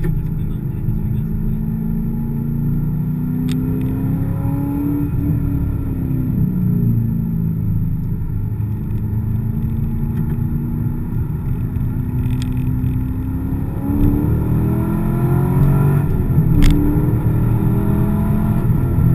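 Chevrolet Corvette's V8 heard from inside the cabin, its note rising and falling as the car accelerates and lifts through the corners. Two sharp clicks come through, one a few seconds in and one near the end.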